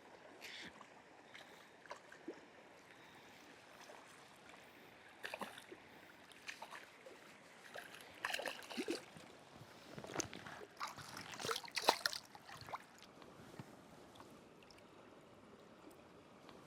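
River water running steadily, with a run of irregular splashes in the shallows through the middle.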